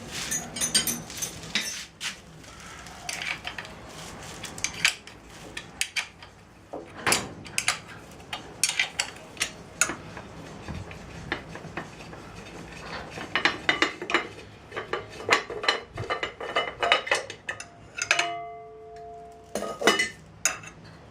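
Hand tools and metal parts on a Dnepr MT 10-36 motorcycle engine clinking and tapping irregularly as something is unscrewed, with a short metallic ring near the end.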